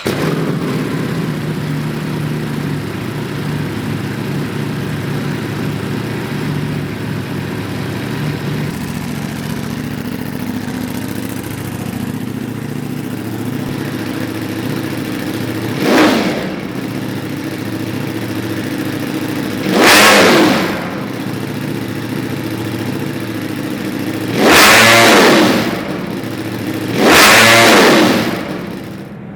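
Ducati Panigale V4 Speciale's V4 engine through an Akrapovic titanium full race exhaust, idling steadily and then revved four times: a short blip about halfway through, then three bigger revs near the end, the last two held for about a second each.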